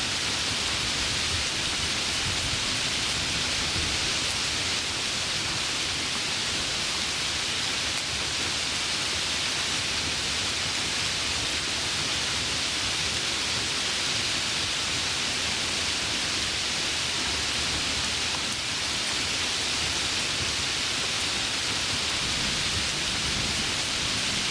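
Heavy rain falling steadily: a dense, even hiss with no separate drops or thunderclaps standing out.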